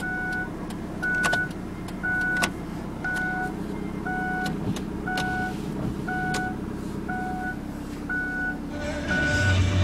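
2003 Kia Rio's four-cylinder engine idling just after a cold start, while a dashboard warning chime beeps about once a second. Near the end a louder hum and hiss join in.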